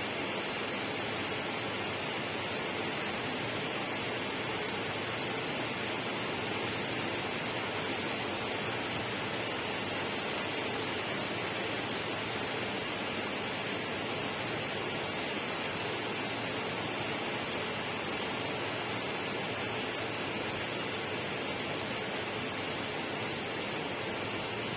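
A steady, unchanging rushing noise spread evenly across low and high pitches, with no distinct events.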